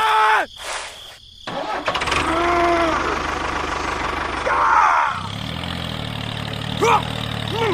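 A vehicle engine starts up and runs steadily, settling into an even low hum about five seconds in. Short squeaky cartoon-like voice sounds are heard over it several times.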